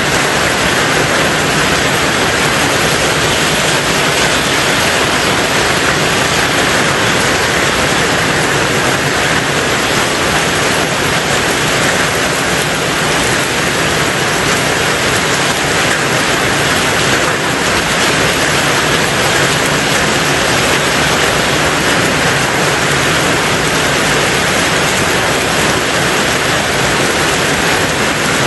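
Steady, dense rain on a tin roof: an even hiss that keeps the same strength throughout, with no separate drops standing out.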